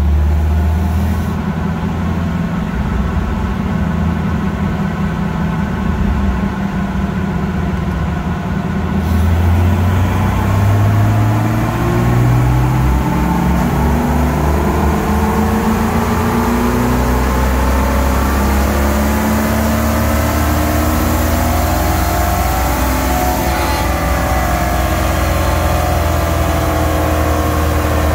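2000 Jeep Wrangler TJ's 4.0-litre inline-six making a wide-open-throttle pull on a chassis dyno, breathing through a velocity stack on the intake. It runs steadily for the first third, then climbs steadily in pitch as it revs up toward about 4,500 rpm.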